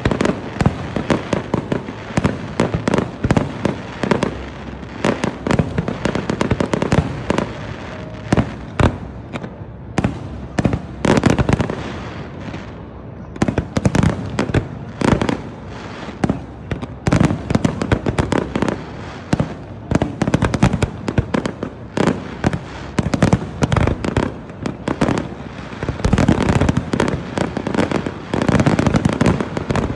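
Aerial fireworks display: a steady barrage of shell bursts, many bangs in quick succession. The bangs thin out briefly about twelve seconds in, then pick up again.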